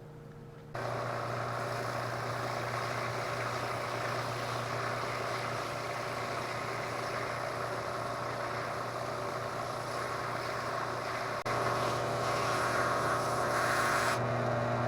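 Electric power tool switched on about a second in and running steadily as it cuts down the end of a wooden rake handle, throwing off dust. It gets louder near the end.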